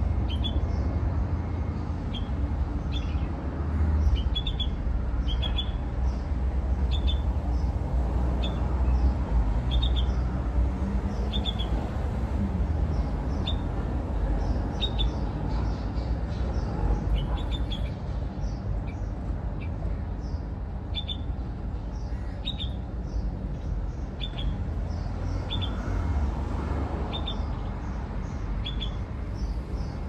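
A bird chirping over and over, short high chirps about once a second, over a steady low rumble.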